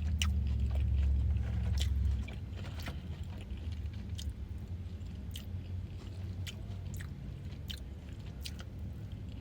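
Close-up chewing and biting of a bacon double cheeseburger, with small crunchy clicks. A low hum underneath stops about two seconds in.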